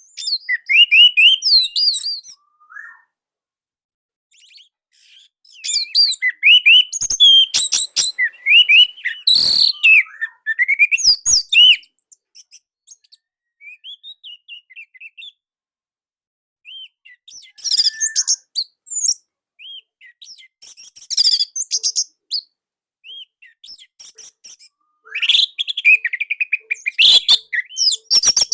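Orange-headed thrush (anis merah) singing: bursts of rapid, varied whistled phrases a second or two long, separated by pauses filled with a few soft single notes.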